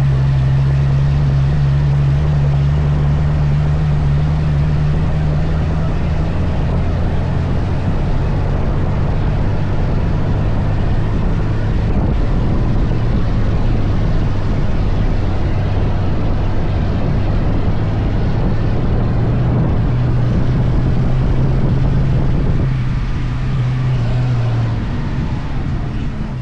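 Dune buggy engine driving steadily, a low drone that drops in pitch about six seconds in and eases off near the end, over a steady rushing noise.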